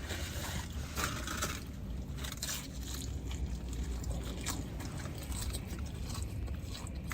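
A person chewing a bite of fried chicken close to the microphone, with many small crunches from the breading and soft mouth sounds.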